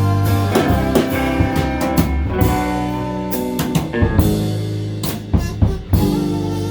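Live band playing an instrumental passage of a song: drum kit, guitar and a steady bass line. A few sharp drum hits come close together near the end.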